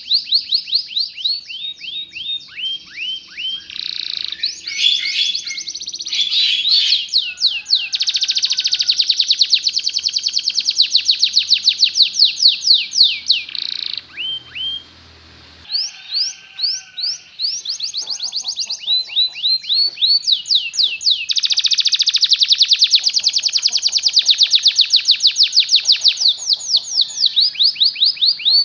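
Canary singing a long, continuous song of high, fast trills and rapidly repeated notes, mixed with quick downward-sweeping notes. The song breaks off briefly about halfway through.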